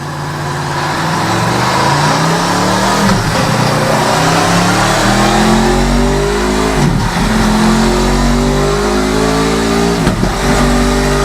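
Aprilia Tuono V4 1100 Factory's V4 engine revving hard under load on a dyno. Its pitch climbs steadily, with brief drops in revs about three, seven and ten seconds in, like gear changes.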